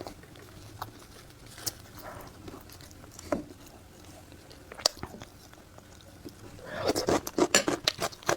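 A person biting and chewing food close to the microphone: a few scattered mouth clicks, then loud, rapid chewing near the end.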